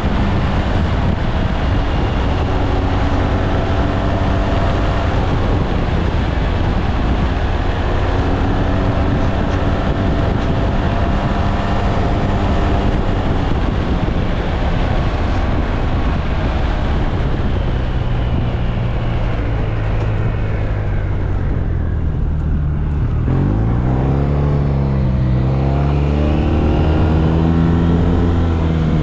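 SYM Maxsym TL 508 maxi-scooter's engine running while riding, with wind rushing past. About two-thirds of the way through, the engine and wind die down as the scooter slows, then the engine note climbs again as it accelerates away.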